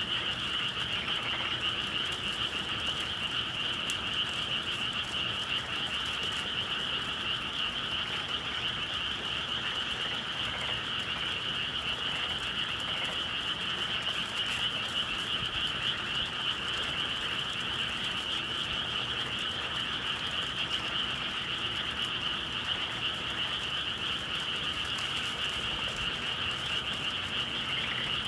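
A dense chorus of many frogs calling at once, steady and unbroken, high-pitched with a fainter lower layer beneath.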